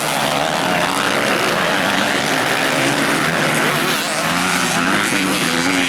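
A pack of motocross bikes running at high revs together, many engines overlapping, their pitches rising and falling.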